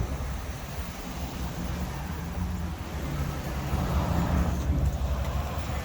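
A vehicle engine running with a low, steady rumble, a little louder past the halfway point.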